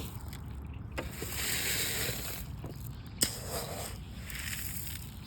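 Bird-feeding gear being handled: a few sharp clicks and knocks, the loudest about three seconds in, between bursts of rustling.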